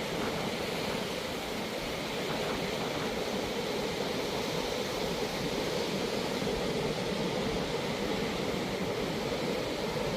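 Ocean surf breaking and washing onto a sandy beach: a steady, even rushing hiss.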